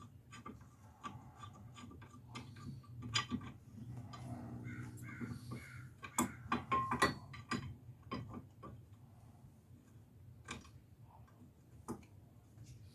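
Scattered metallic clicks and taps of hand tools and bolts as a cover is bolted back on during wheel bearing reassembly, over a steady low hum.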